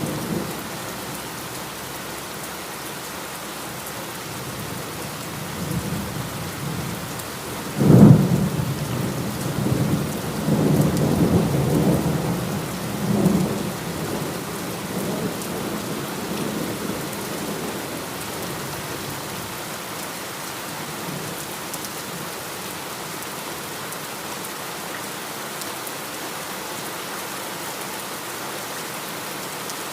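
Steady heavy rain with a thunderclap about eight seconds in, a sudden crack followed by rolling rumbles for several seconds before the rain carries on alone.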